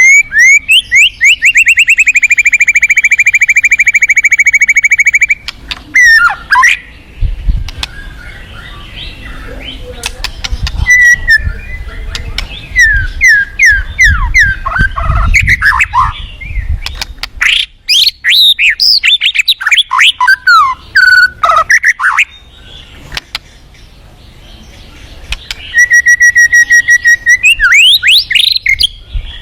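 White-rumped shama singing. It opens with a rapid trill held for about five seconds, moves into varied whistled phrases, downward sweeps and chattering runs, and near the end gives another quick trill and rising notes.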